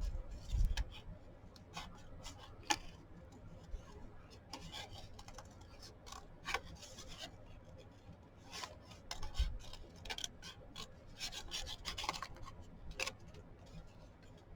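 Scissors snipping paper with irregular cuts, and the paper rustling and rubbing as it is handled: a piece being trimmed close along its edge.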